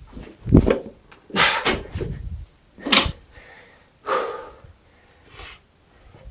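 A heavy thump about half a second in, then a series of loud, sharp breaths and exhales, about one a second, as a lifter recovers from a set of barbell muscle cleans.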